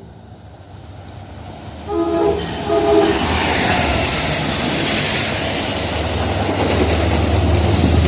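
Passenger train horn sounding two short blasts, then the train approaching and running past with a building rumble and wheel-on-rail noise.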